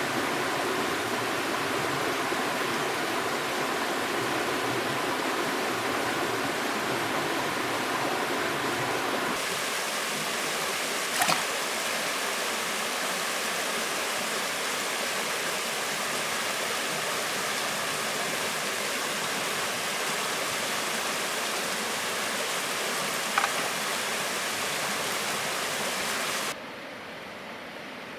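Steady rushing of river water. Its tone shifts abruptly about a third of the way in, and it drops quieter near the end. Two sharp clicks fall in between.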